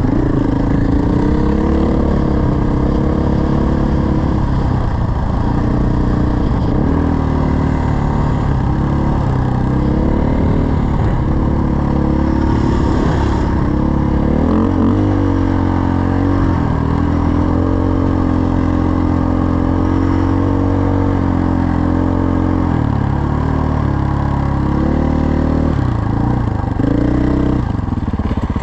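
Dirt bike engine running while riding, its revs rising and falling with the throttle, and holding a steady pitch for several seconds midway.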